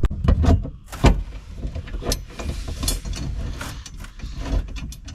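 Irregular knocks, clicks and rattles of metal brackets and hardware being handled and fitted, with the loudest knocks about a second in.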